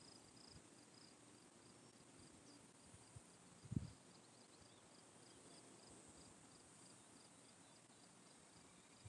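Faint cricket chirping in a steady, regular pulse over a constant high insect hiss, with one soft low thump about four seconds in.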